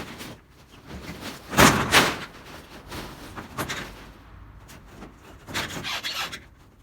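Corrugated metal roofing sheets scraping and clattering as they are handled and torn down, in a few separate bursts. The loudest clatters come about a second and a half in, with another run near the end.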